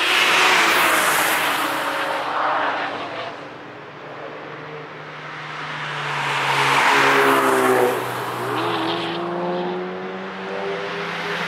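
Cars passing at speed on a race track, one after another. The first goes by just after the start and a second about seven seconds in, each engine note loud as it passes and then dropping in pitch as it goes away, with another car arriving near the end.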